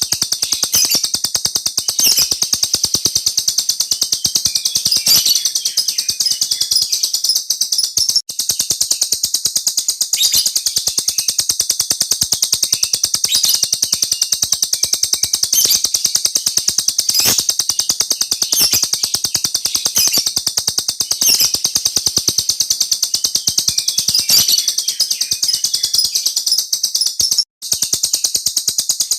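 A small bird singing a long, unbroken rolling trill: a very fast, high-pitched chatter that runs on without pause, apart from two brief breaks, one about 8 seconds in and one near the end.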